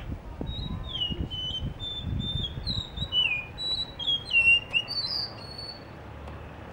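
Blue whistling thrush singing: a phrase of clear whistled notes, many of them sliding downward, that stops about five and a half seconds in.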